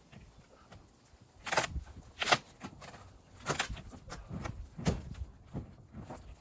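Irregular knocks and clatters of wood, a few sharp ones spaced about a second apart, from work on a truck's wooden grain box.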